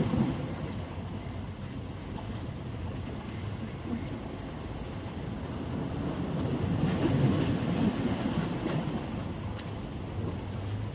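Surf washing onto a sandy beach, with wind buffeting the microphone; the wash swells up again in the second half.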